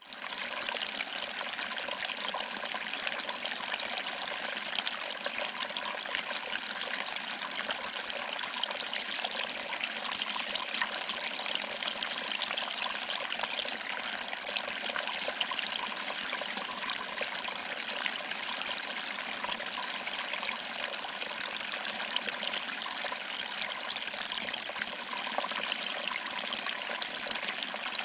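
Small waterfall: water trickling over rocks and splashing into a pool, a steady, light, hissing flow with little deep rumble.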